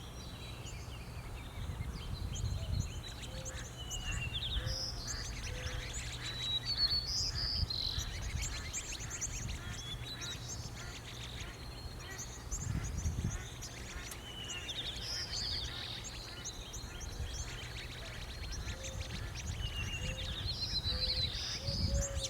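Small songbirds chirping and singing, with quick high chirps, trills and a short song phrase that comes back several times. A steady low hum lies underneath, with a few brief low rumbles.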